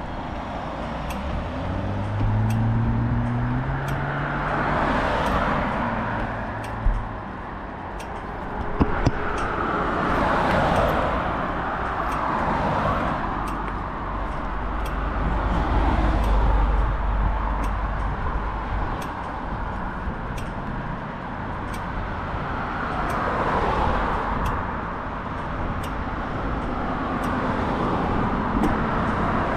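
Road traffic: cars passing one after another, each a swell of tyre and engine noise that rises and fades. In the first few seconds one vehicle's engine note climbs as it accelerates.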